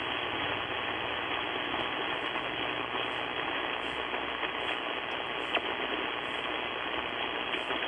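Steady hiss of static from a two-way radio receiver with no voice on the channel, cut off above the narrow radio audio band.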